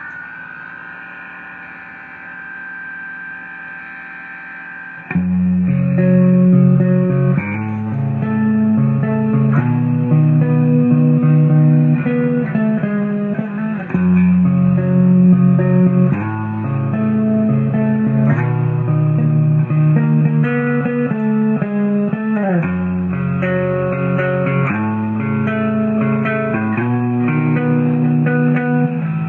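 Instrumental guitar music with a bass line. It opens on a quieter held chord; about five seconds in, a louder part begins with changing bass notes under a plucked guitar melody.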